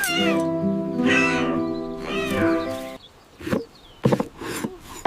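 Soft cartoon background music holding a chord, over which a small animal gives three meow-like cries about a second apart. After that the music drops away, leaving a few short, quieter sounds.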